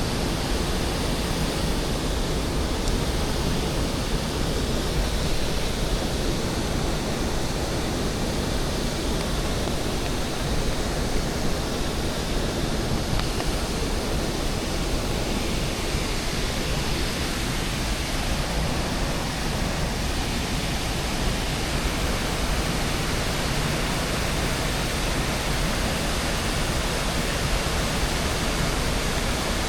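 Waterfall water rushing and crashing into a pool: a loud, steady roar of white water with no breaks.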